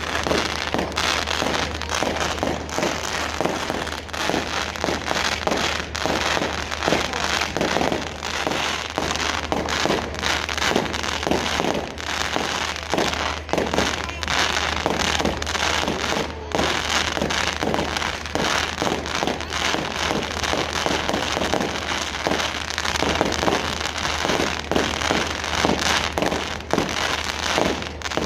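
Fireworks display going off: a continuous, rapid crackle of many overlapping bangs and pops with no break.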